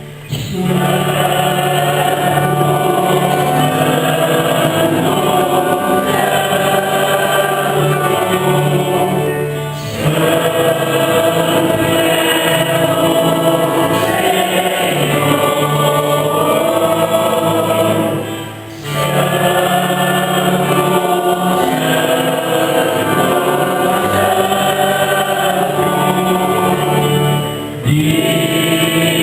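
Church choir singing a hymn with instrumental accompaniment, in phrases with short breaths between them.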